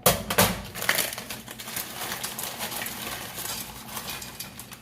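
Frozen peas and carrots poured from a bag, rattling and pattering into a dish. The hard little pieces land loudest in the first second, then thin to scattered light clicks.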